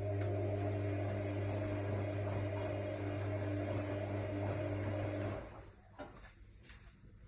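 AEG Lavamat L62850L washing machine giving a steady electrical hum that cuts off suddenly about five seconds in, followed by a few light clicks.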